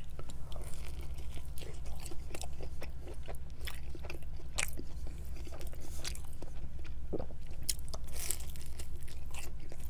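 Close-miked chewing of sauce-dipped pizza, with many small wet mouth clicks, then a fresh bite into the pizza crust about eight seconds in. A steady low hum runs underneath.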